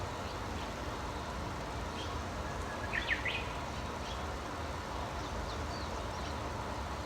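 Wild birds giving short chirps and calls, with a quick run of sweeping chirps about three seconds in, over a steady low background rumble like distant traffic.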